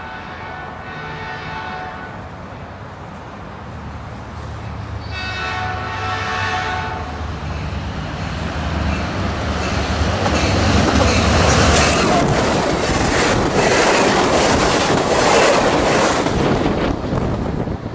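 Caltrain F40PH diesel locomotive sounding two blasts of its multi-tone horn as it approaches, one at the start and one about five seconds in, while the low diesel rumble builds. From about ten seconds in the train passes close at speed, a loud rush of wheels with rapid clattering over the rail joints.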